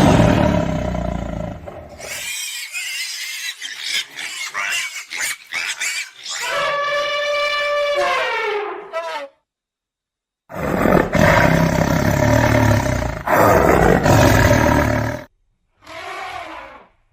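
Large wild animals roaring in a string of separate clips: a long loud roar, a drawn-out pitched call that falls at its end, then another long roar and a short call near the end, with abrupt cuts and a second of silence between them.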